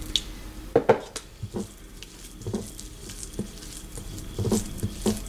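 Spoon stirring a wet spice-and-lime-juice marinade paste in a bowl, with irregular taps and scrapes of the spoon against the bowl.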